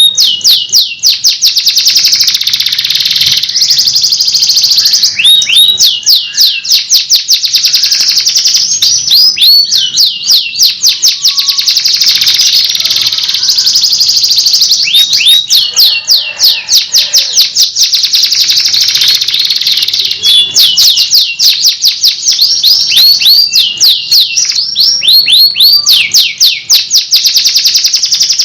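Canary singing a continuous song of rapid trills: runs of quick, high, downward-sliding notes repeated several times a second, alternating with buzzy rolling passages.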